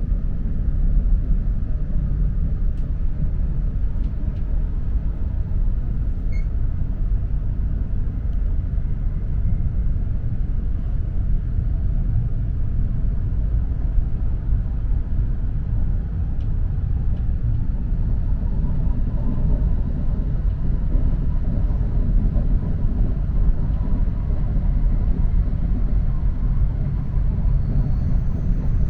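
E4 series double-decker Shinkansen running, a steady low rumble of wheels and running gear heard inside the lower-deck passenger cabin.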